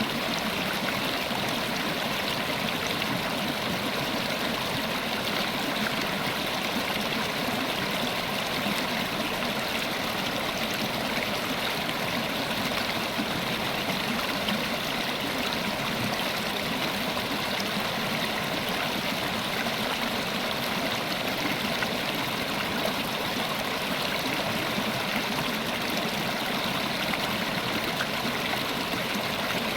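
River water flowing, a steady, even rush of running water that doesn't change.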